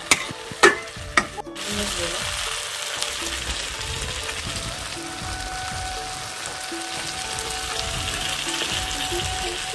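Chopped tomatoes and spice paste sizzling in hot oil in a metal kadai as the masala is fried. A spatula knocks sharply against the pan a few times in the first second and a half, then the sizzle goes on steadily.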